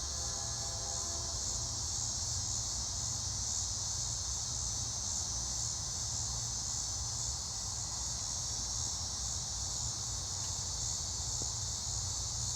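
A steady chorus of insects chirring continuously in a high, finely pulsing tone, over a low steady rumble.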